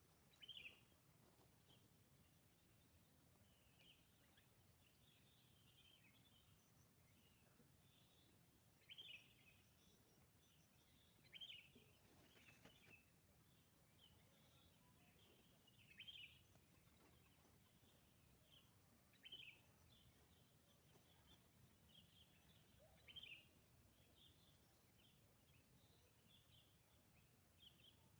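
Birds calling, a short bright call every few seconds with fainter chirps between, over a quiet background.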